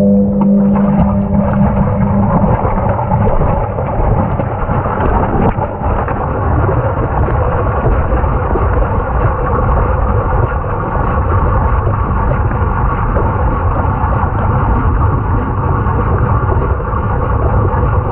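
Washing machine running a wash: water and laundry churning in the drum, a loud, steady rushing noise. A low hum fades out over the first couple of seconds.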